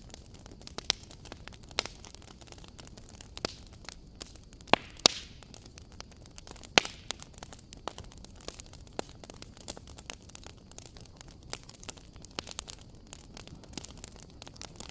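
Wood fire crackling: irregular sharp pops and snaps over a soft steady hiss, with the loudest pops about five and seven seconds in.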